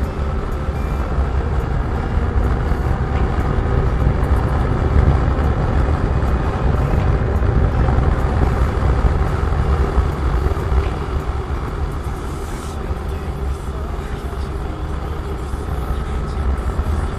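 Riding a Kawasaki Z800 at speed: steady wind rush and engine drone, easing slightly about three-quarters of the way through.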